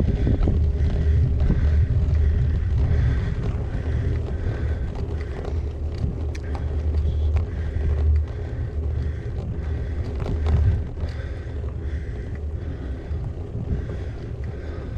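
Wind buffeting the GoPro microphone while cycling, a continuous low rumble, with scattered clicks and rattles from the bike.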